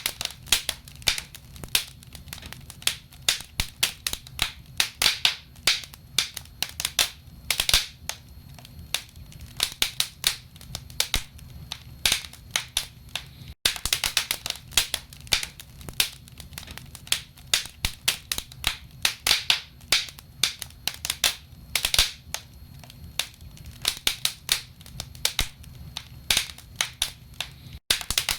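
Wood fire crackling in a fireplace: burning logs give dense, irregular pops and snaps over a low, steady rumble. A split-second silence falls about halfway through.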